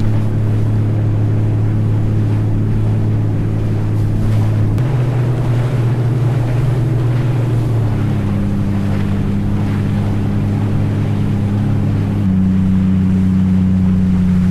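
Steady engine drone under wind-like noise, its pitch changing abruptly a few times.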